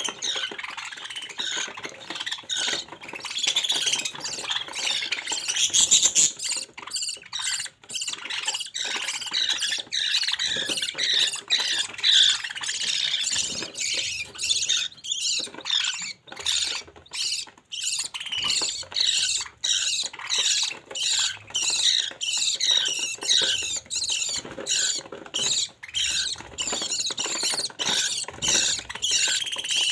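Budgerigar chicks calling: a busy, unbroken run of many short, high chirps and cheeps overlapping one another.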